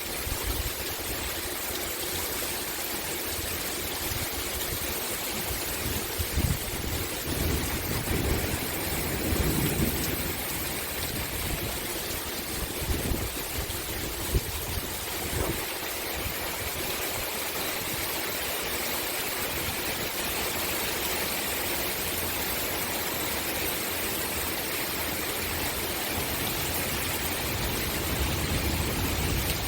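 Steady rainfall, an even hiss with no letup, with some uneven low rumbles and a few short, louder taps in the middle stretch.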